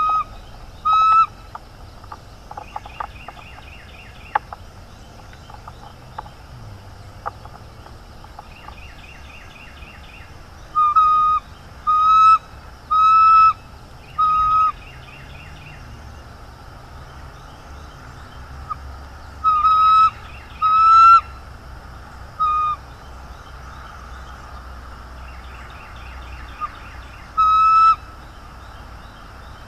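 Birds calling: loud, short pitched notes, two at the start, then a run of four, a run of three and a last one near the end. Between them come quieter bursts of rapid, high chittering notes.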